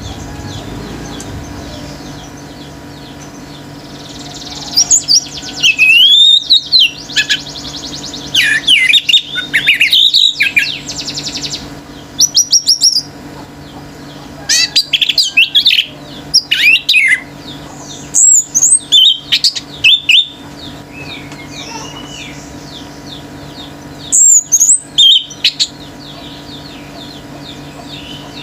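Orange-headed thrush singing: loud, varied phrases of whistles, slurred notes and rapid trills in bursts, separated by short pauses.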